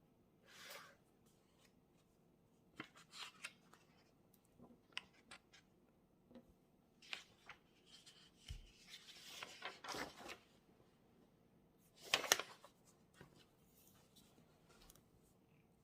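Quiet desk sounds of someone studying: scattered light taps and clicks with brief paper rustles, the loudest rustle about twelve seconds in.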